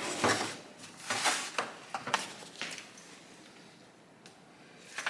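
Short clicks and clatters from the stripped Honda SL125 engine's gearbox as it is shifted and turned over by hand, several bursts in the first two and a half seconds, then quieter handling noise.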